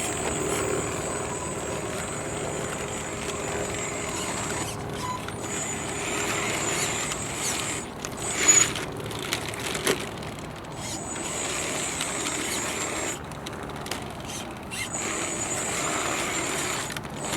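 A 3D-printed RC crawler driving, its small electric motor and gearbox running with a high thin whine that cuts out and comes back several times. There are a couple of sharper knocks about halfway through.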